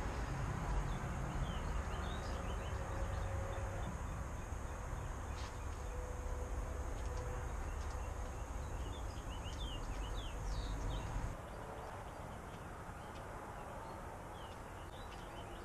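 Small birds chirping over a low rumble, with a thin steady high tone; the rumble and the tone cut off abruptly about eleven seconds in, leaving the chirping.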